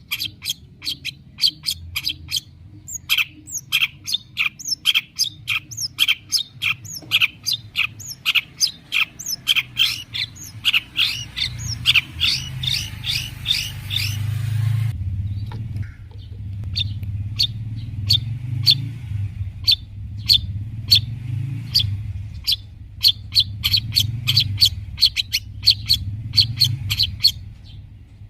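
Long-tailed shrike (cendet) singing vigorously: rapid runs of sharp, chattering high notes, several a second, growing denser and busier near the middle, over a low background rumble.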